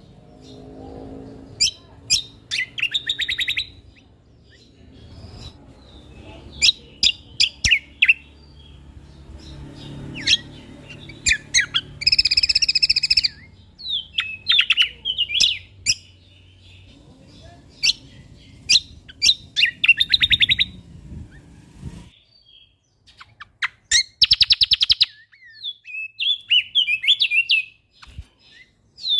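Songbird song played as a masteran, a training song for caged songbirds: bursts of sharp, rapid chirps and fast trills with short pauses between phrases. A faint low hum sits under the song and stops about three-quarters of the way through.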